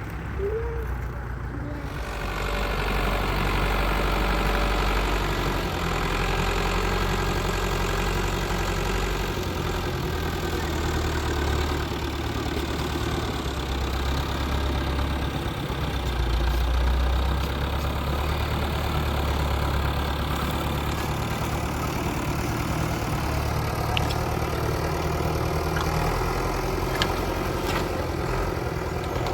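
Tractor engine running steadily, getting louder about two seconds in.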